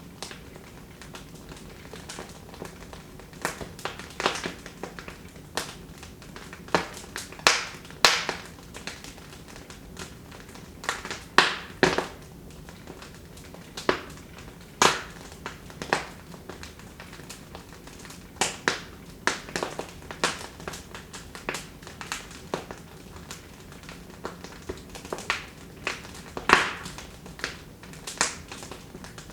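Wood fire crackling in a fireplace: sharp, irregular pops and snaps over a faint steady hiss.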